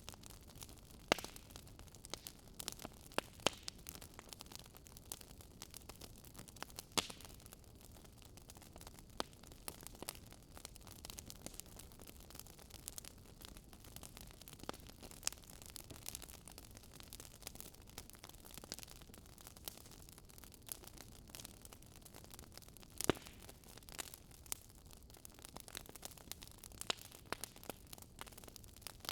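Wood fire crackling in a fireplace: irregular sharp pops and snaps over a soft steady hiss, a few louder pops standing out early on and about two-thirds through.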